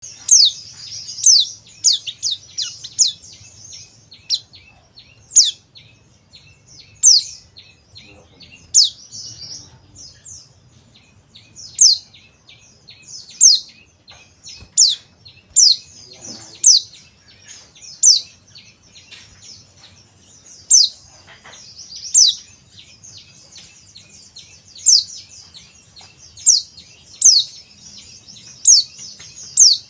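Male white-eye (pleci, the Bali 'dakun' type) calling: a run of sharp, high notes, each sliding quickly downward, roughly one a second, over softer continuous twittering.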